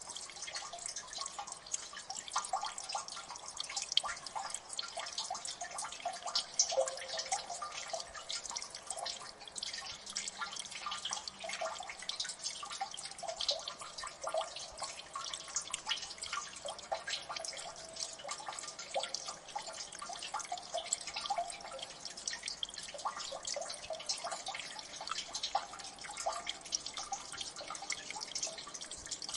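Many water drops falling into a gully, a dense, irregular patter of small drips and plinks, several a second without pause.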